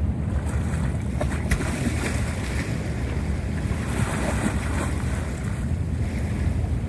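Sea waves washing against the shore, with wind buffeting the microphone in a steady low rumble and a few faint clicks.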